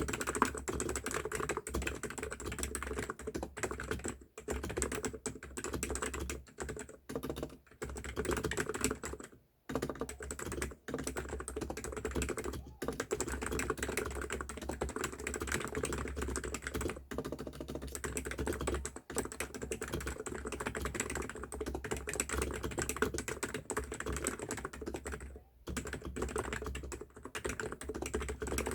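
Fast, continuous typing on an ABKO Hacker K995P V3 electro-capacitive keyboard with 45 g switches and PBT keycaps, broken by a few short pauses, the longest about nine seconds in.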